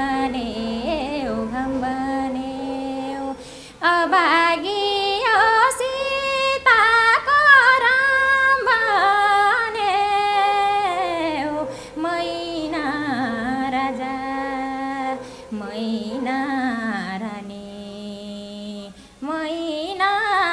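A woman singing a Nepali song solo, with ornamented bends in pitch and long held notes, pausing briefly for breath a couple of times.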